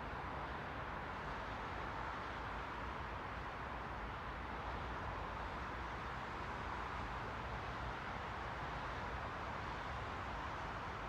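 Steady white noise: a continuous, even hiss with no changes, fuller in the middle pitches and with the highest pitches rolled off.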